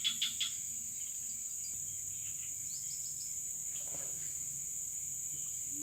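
Steady high-pitched chorus of crickets and other insects, with a quick run of chirps right at the start.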